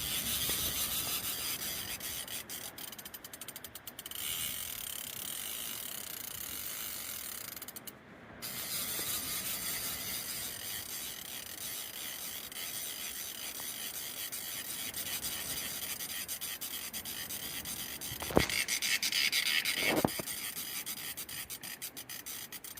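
Fishing reel clicking fast and without letup as a large white sturgeon fights on the line. The clicking stops for a moment about eight seconds in and gets louder for a couple of seconds near the end, with two sharp knocks.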